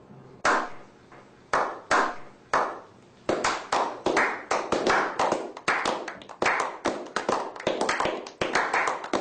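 Sharp taps or knocks, a few spaced about a second apart, then quickening to a rapid, uneven run of several a second, each with a short ringing tail.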